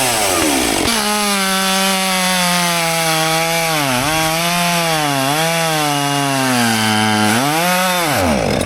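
Husqvarna 564 XP two-stroke chainsaw cutting wood, its engine speed dipping and recovering under load. Near the end the pitch falls steeply away as the engine runs out of fuel and dies.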